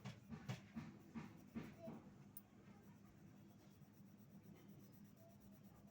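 A drawing tool scratching on paper: about half a dozen short strokes in the first two seconds, then only faint room tone.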